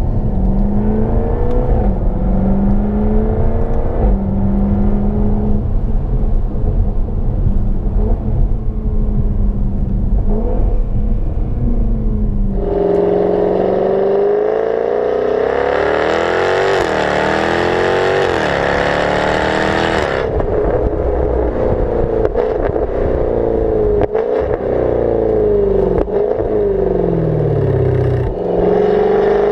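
Supercharged 5.0-litre V8 of a 2016 Jaguar F-Type R running under way, its revs rising and falling with gear changes. About thirteen seconds in, the sound switches abruptly to a brighter exhaust note with several quick climbs and drops in revs.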